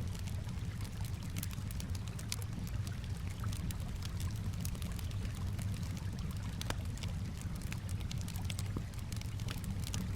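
Campfire crackling with sharp irregular pops, over a steady low wash of gently lapping water.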